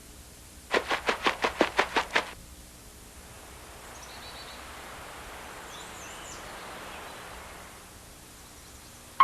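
A quick run of about ten sharp knocks in a second and a half, then a faint hiss with a few faint high chirps.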